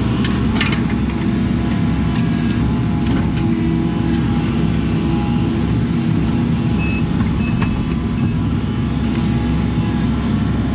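Diesel engine of a compact excavating machine running steadily at working speed, with a few light knocks and clicks.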